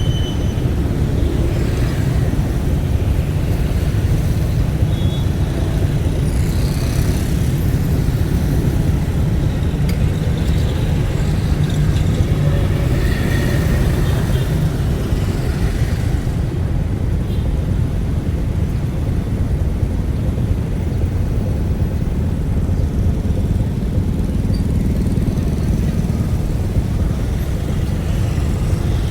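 Steady low rumble of a road vehicle on the move, running continuously without a break.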